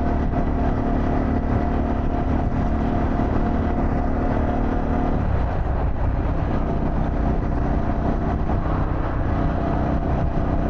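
Harley-Davidson Pan America's 1250 cc V-twin running under way, with low wind noise over the helmet mic. The engine note changes about five seconds in, as with a shift or a change of throttle.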